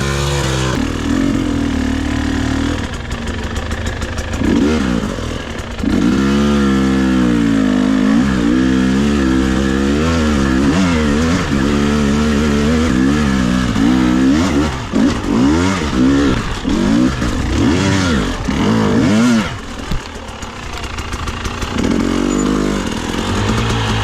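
Two-stroke dirt bike engine, a Husqvarna TE300i, revving up and down over and over as the throttle is worked on slippery wet leaves and rocks. There is a brief lull about twenty seconds in.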